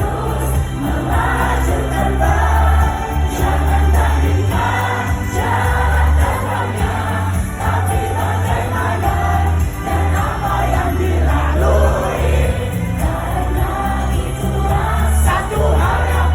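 Live concert music from an idol girl group: several female voices singing together over a heavy, pulsing bass and band backing, played loud.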